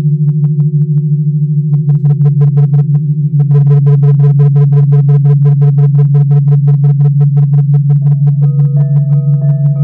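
Crystal singing bowls ringing: a loud, steady low tone, with a fast, even pulsing of higher tones from about two seconds in. Around eight seconds in, further bowls join with higher sustained tones.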